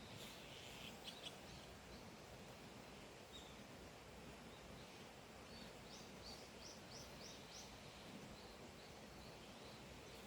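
Faint outdoor ambience with steady hiss, and a bird chirping: a couple of short high notes about a second in, then a quick run of about six high chirps a little past halfway that trails off into fainter notes.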